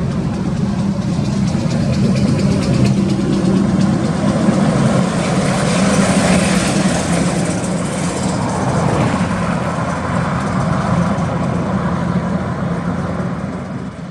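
A heavy road vehicle's engine running steadily, with a rush of passing traffic swelling and fading midway.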